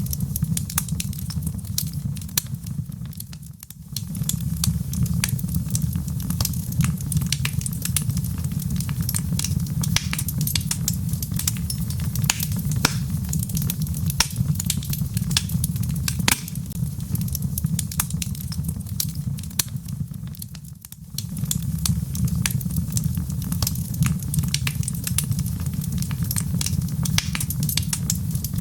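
Log fire in a fireplace crackling, with many sharp pops and snaps over a steady low rumble of the flames. The rumble drops away briefly twice, about three seconds in and again about twenty seconds in.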